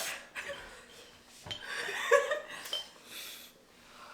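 People breathing hard against the burn of very spicy chicken, with a short voiced groan about two seconds in.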